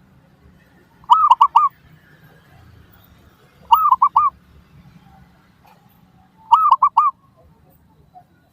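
Zebra dove (perkutut) cooing: three phrases about two and a half seconds apart, each a quick run of about four short rising-and-falling coos.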